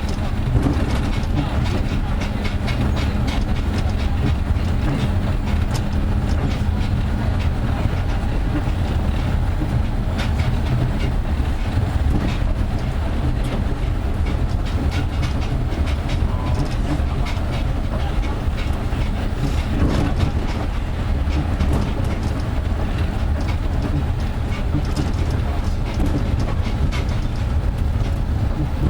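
Nanko Port Town Line automated guideway train running on rubber tyres: a steady low rumble with frequent light knocks. A low hum fades out about eight seconds in.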